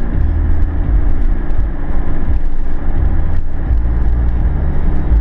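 Subaru Outback's 3.0-litre H6 flat-six engine running with a steady low drone while the car is driven. The engine has a misfire that shows up under acceleration.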